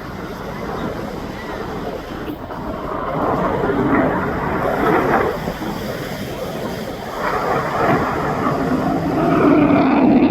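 US Navy F-35C's single F135 jet engine running, its noise swelling and easing off a few times and growing louder toward the end, with wind buffeting the microphone.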